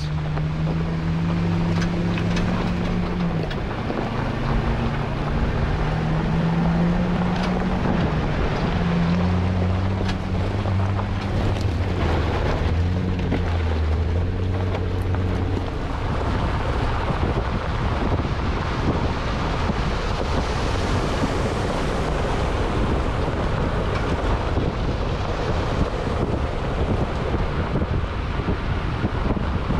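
Vehicle driving off on a trail: its engine note shifts in pitch every second or two in the first half. After that, steady wind and road noise on the microphone takes over.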